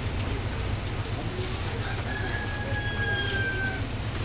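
A single long bird call, slightly falling in pitch, starting about two seconds in and lasting under two seconds, over a steady low rumble.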